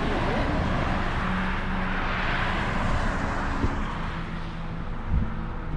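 A vehicle passing on the road: tyre and engine noise swells to a peak about two seconds in and fades away, over a low steady hum. A short low thump comes near the end.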